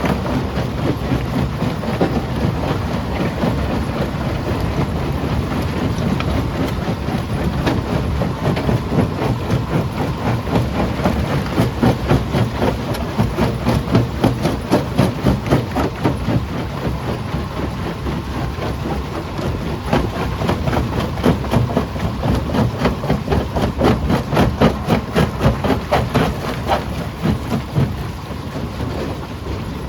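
Jaw crusher running under load, with a rapid, irregular clatter of knocks and cracks as rock is broken in its jaws over a steady low machine rumble. The clatter grows denser through the middle and thins near the end.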